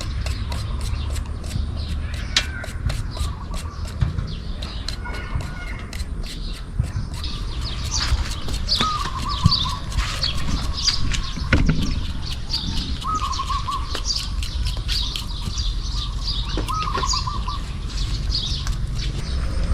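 Small birds chirping and trilling, busier from about halfway through, over an even series of sharp clicks or taps at about three a second and a low rumble.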